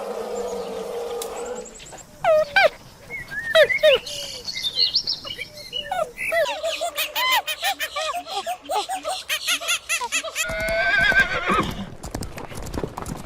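A run of short, chirping animal calls that glide up and down in pitch, with clicking among them in the second half. Near the end comes a horse's whinny, one long wavering call.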